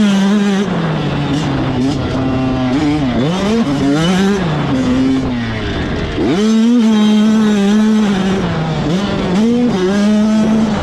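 85cc two-stroke motocross bikes racing, engines revving hard and dropping back again and again as riders shift and work the throttle. Two engines are heard at once for a few seconds near the middle, and one rises sharply in pitch about six seconds in.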